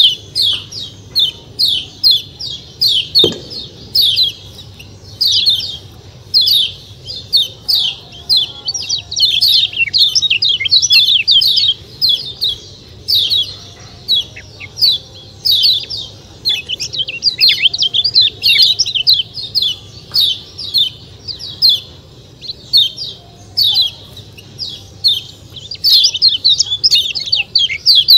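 Kecial kuning white-eye giving quick runs of high, sharp 'ciak ciak' chirps, repeated over and over with short pauses between runs.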